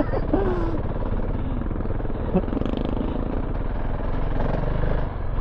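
KTM 690 Enduro R's single-cylinder engine running at steady revs while the bike is ridden slowly along a rutted dirt trail.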